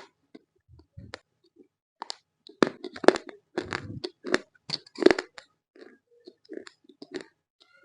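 Close-up crunching and chewing of roasted Multani mitti (fuller's earth clay). The crunches come sparse at first, then in a dense run of loud, crisp crunches from about two and a half seconds to past five seconds, then thin out into softer crunches near the end.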